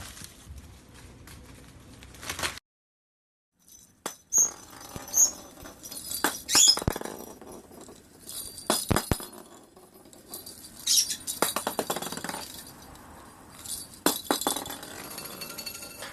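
Light clinks and taps of small hard objects, some in quick runs, after a brief silence about two and a half seconds in.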